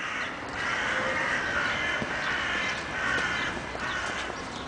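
Birds calling repeatedly outdoors.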